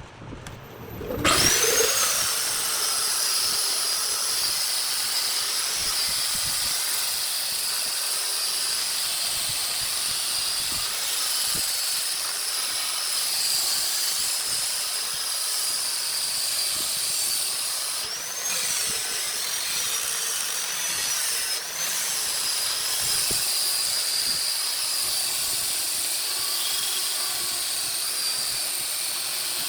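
A small high-speed electric motor starts about a second in, rising quickly in pitch, then runs steadily with a high whine and hiss, dipping briefly in pitch twice.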